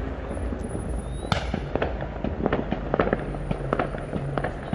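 Many fireworks and firecrackers going off, a rapid irregular string of pops and bangs, with one louder bang about a second in.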